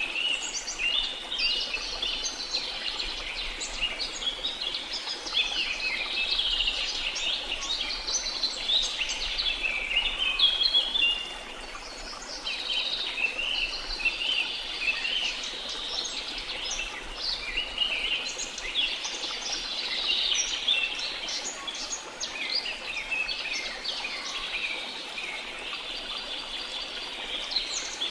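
A chorus of many birds chirping and trilling at once in a rainforest, short quick calls overlapping without a break, over a faint steady rush of water.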